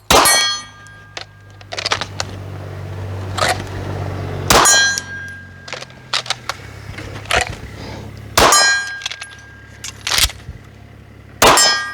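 A slow string of pistol shots, about one every second or two, several of them followed by the ring of a struck steel target.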